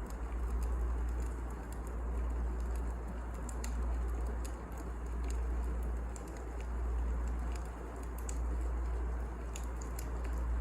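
Wood fire burning: a low rumble that swells and eases every second or two, with scattered sharp crackles and pops from the burning logs.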